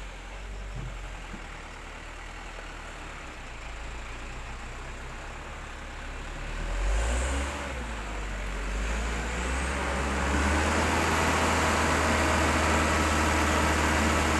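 Diesel dump truck engine running under load, with a brief surge about seven seconds in and growing louder and harder-working from about ten seconds in.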